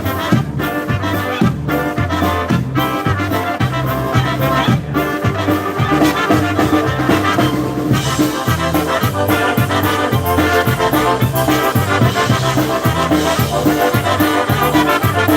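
Live polka band playing an instrumental break between sung verses of a Polish song, with a steady, evenly repeating bass beat under the melody.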